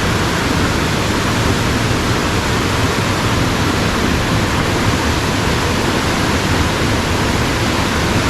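Steady, loud rush of a mountain stream's water tumbling over rocks, an even noise with no breaks.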